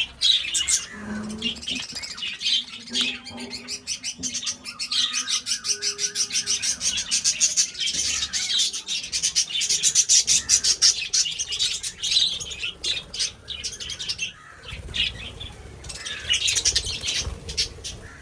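A colony of budgerigars chattering and chirping together, a dense stream of rapid high-pitched chirps that grows busiest in the middle.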